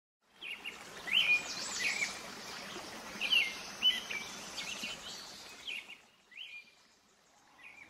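Birds chirping: a series of short, rising chirps over a soft outdoor hiss, fading out after about six seconds.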